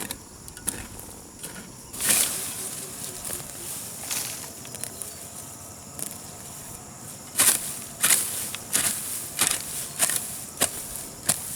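Garden hoe chopping into grass and soil: two single strokes, then a steady run of strokes about one every two-thirds of a second from a little past halfway.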